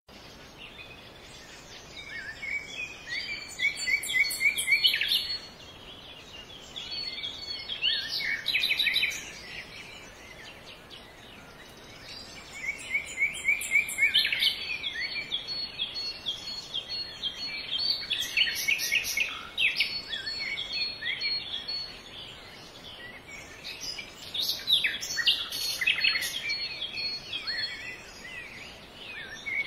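Songbirds singing: bursts of quick chirps and trills a few seconds long, recurring throughout, over a faint steady background hiss.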